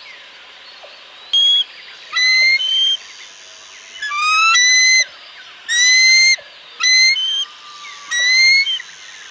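A bird calling repeatedly: about eight short whistled calls with clear overtones, some held level and some rising in pitch, over a faint steady background hiss.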